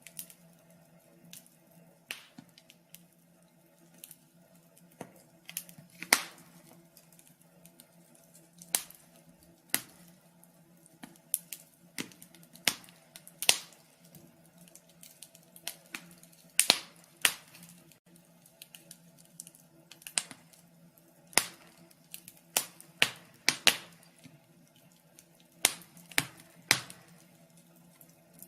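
Fire crackling: irregular sharp pops and snaps, a few much louder than the rest, over a faint steady low hum.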